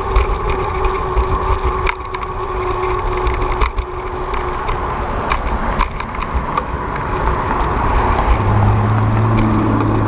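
Wind rushing over the microphone and the rattle and clicks of a bicycle riding over the road surface. A low steady hum comes in about eight seconds in.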